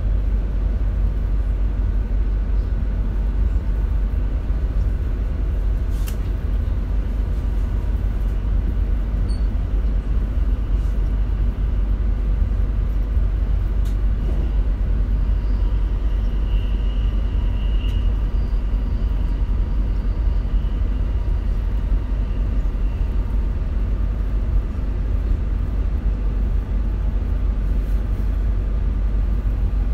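Inside an RER C commuter train carriage on the move: a steady low rumble of the train running on the rails, with a faint steady whine above it.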